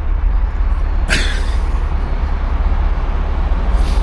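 Steady low vehicle rumble, with a short sharp hiss about a second in and a fainter one near the end.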